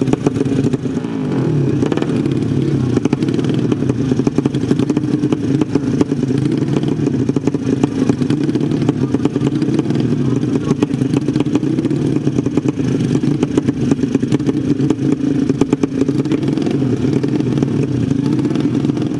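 Drag-bike motorcycle engines running steadily with a fast crackling firing and no clear rise or fall in pitch.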